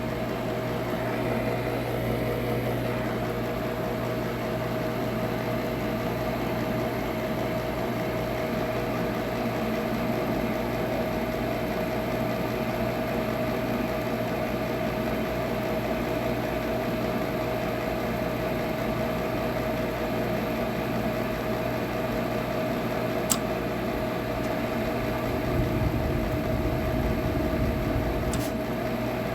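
Furnace running with a steady hum and a constant tone over it; two sharp clicks come in the last several seconds. The furnace is failing.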